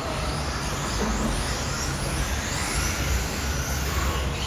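Racing RC cars' motors whining, their pitch rising and falling again and again as they speed up and slow down, over a steady low rumble.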